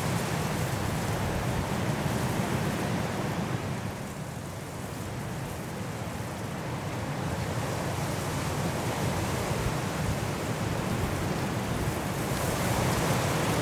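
Strong wind gusting through trees in a snowstorm, a steady rushing that eases a few seconds in and builds again near the end.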